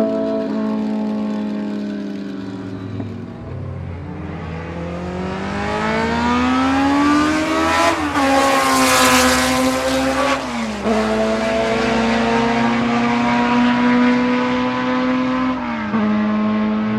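BMW M12/7 2.0-litre four-cylinder Formula 2 racing engine at speed. Its revs climb steadily for several seconds to a loud rush as the car passes close, about eight seconds in. The pitch then drops and holds, with a short dip near the end.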